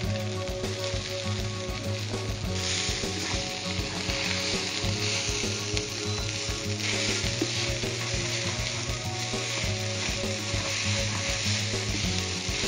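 Quinoa and diced red pepper sizzling in oil in a nonstick frying pan as they are stirred and tossed with a spatula; the sizzle grows louder about two and a half seconds in. A steady low hum runs underneath.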